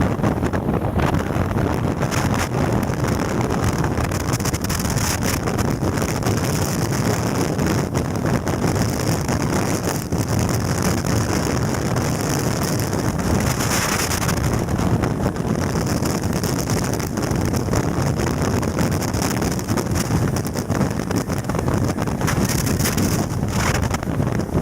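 Strong typhoon wind buffeting the microphone: a loud, continuous rushing rumble without a break.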